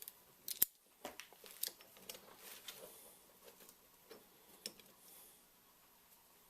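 Scattered light clicks and knocks of a wrench and metal parts being handled during assembly of a homemade spring compressor, the sharpest knock about half a second in.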